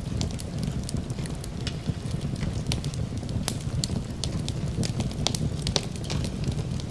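Fireplace wood fire crackling, with frequent sharp pops and snaps over a steady low rumble.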